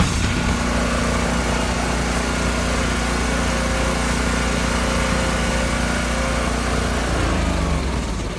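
A small engine running steadily at a constant speed, its pitch dropping as it winds down near the end.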